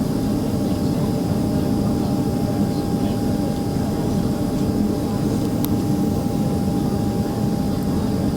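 Steady cabin drone of a Boeing 767-300ER's jet engines and airflow, a low even rumble with a faint steady whine above it.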